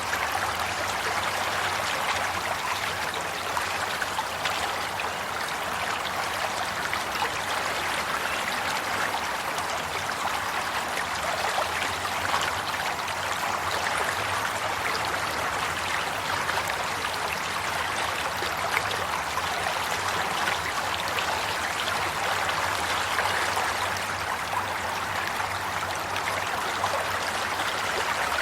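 Steady flowing water, like a stream running and trickling, with small splashes and gurgles throughout.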